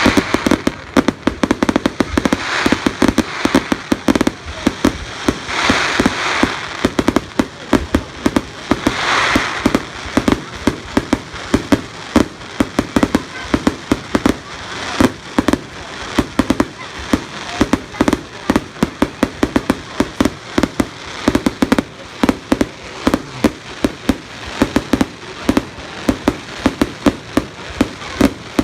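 Fireworks going off: a continuous run of sharp crackling bangs, several a second, with a few louder hissing swells in the first ten seconds.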